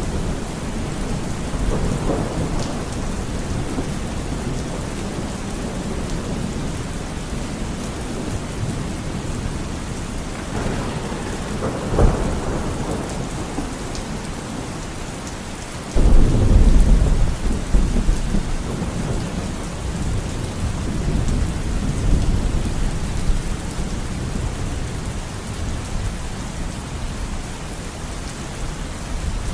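Steady heavy rain with thunder rolling through it. A sharp crack of thunder comes about 12 seconds in, and a loud thunderclap breaks suddenly about 16 seconds in, rumbling away over several seconds.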